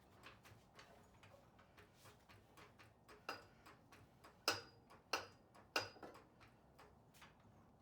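Sharp metallic clinks of metal parts or tools being handled, four louder ones with a brief ring in the second half, over scattered faint ticking.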